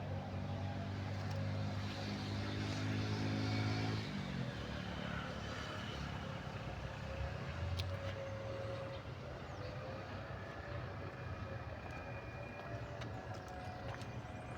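A motor vehicle's engine running steadily, its pitch dropping sharply and the sound fading about four seconds in, after which a lower, steadier engine-like noise continues.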